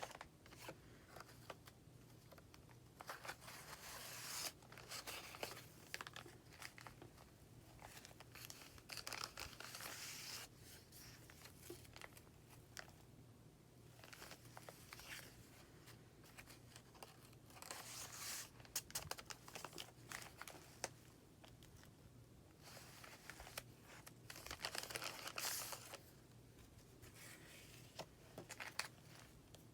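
Paper and card pages of a handmade junk journal being handled and turned, rustling and crinkling in several short bursts with small taps and clicks between them.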